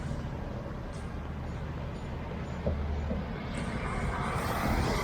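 Road traffic: vehicle engines running with a steady low rumble, and a hiss that swells up near the end as a vehicle goes by close.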